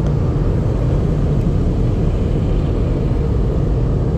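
Automatic car wash machinery heard from inside the car's cabin: a steady, loud low rumble.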